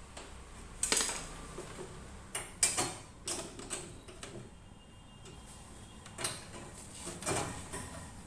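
Irregular clicks and knocks of washing machine parts being handled and fitted by hand: a few single strikes, and a quick cluster of several a couple of seconds in.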